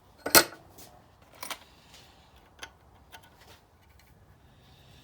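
Metal tools clinking and knocking as they are handled and set down: one sharp clink just after the start, then several lighter clinks spaced out over the next few seconds.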